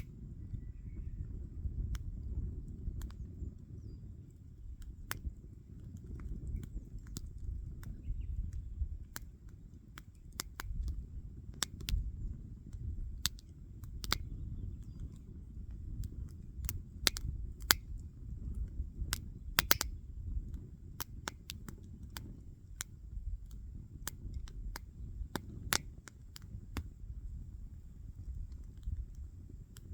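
Wood fire crackling: sharp pops and snaps over a low, steady rumble, the pops sparse at first and more frequent in the second half.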